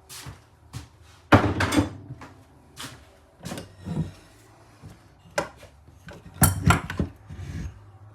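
Knocks and clatter of outboard motor parts and tools being handled and set down, in several separate bursts, with the loudest clatter about a second and a half in and another cluster of knocks near the end.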